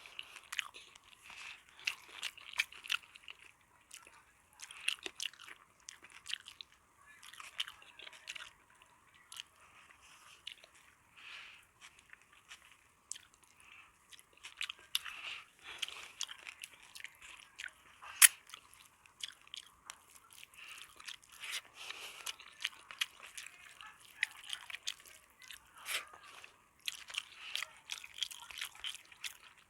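Close-miked eating sounds: a person chewing and biting food, with irregular sharp mouth clicks and short crisp bursts; one louder snap about eighteen seconds in.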